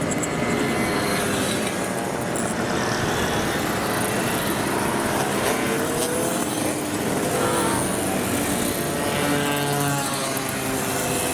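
Several 50cc mopeds riding past, their engines overlapping, each engine's pitch rising and falling as it goes by.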